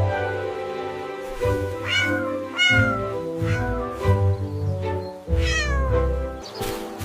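A cat meowing three times over background music: two short meows, then a longer one that falls in pitch.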